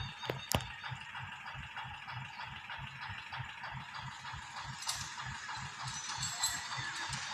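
Single-cylinder diesel engine of an Eicher 241 tractor heard faintly at work, a steady low chugging beat of several pulses a second, with a couple of sharp clicks about half a second in.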